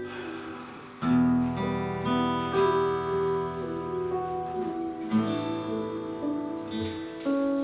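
Acoustic guitar playing slow strummed chords in a worship song, each chord left to ring before the next, with fresh strums about a second in and again near the end.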